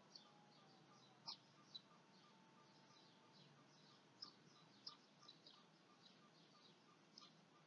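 Near silence: faint room noise with small birds chirping in the background, a run of short high chirps, a few a little louder than the rest.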